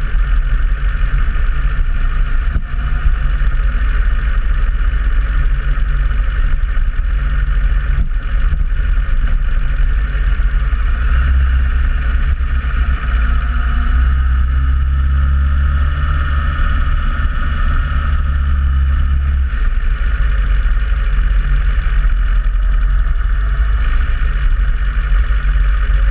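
Motorcycle engine running steadily on the move; its low drone grows louder for several seconds in the middle.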